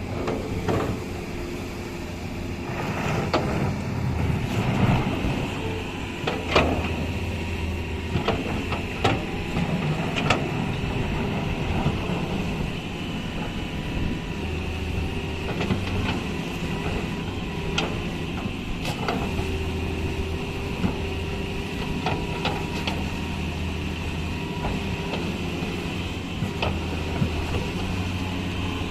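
Heavy diesel engine of an excavator running steadily under changing load, with scattered sharp clanks and knocks.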